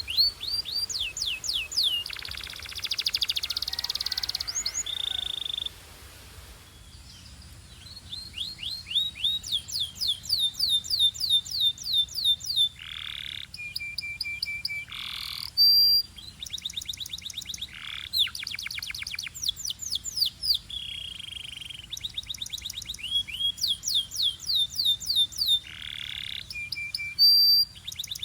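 Belgian canary singing: fast trills of rising chirps repeated several times a second, broken by short held whistles and a few sharp downward-slurred notes, with a brief lull about six seconds in.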